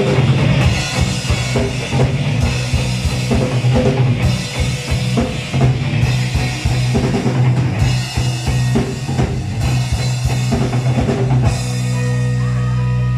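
Rock band playing with a drum kit beating hard under a low sustained bass line; about eleven and a half seconds in the drums stop and a held chord rings on.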